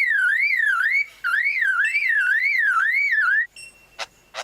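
Superb lyrebird mimicking a car alarm: a warbling tone sweeping up and down about three times a second, with a brief break about a second in. It stops shortly before the end and is followed by two sharp clicks.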